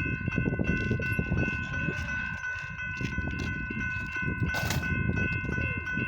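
Railroad crossing bell ringing steadily over the low rumble and irregular clatter of a train's wheels passing through the crossing.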